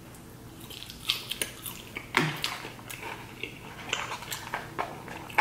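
Close-up mouth chewing of a barbecue-sauce-dipped French fry: irregular wet smacks and small clicks, starting about a second in.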